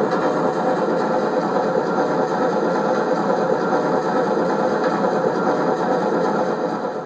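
Sound module of a Piko BR 50 model steam locomotive playing a steady hiss-like running sound through its small speaker, cutting off suddenly at the end.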